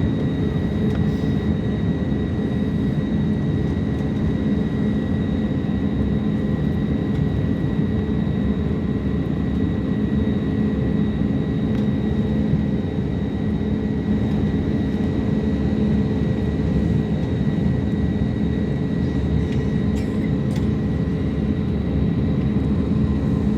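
Jet airliner noise: a steady, dense rumble with a thin, constant high whine over it.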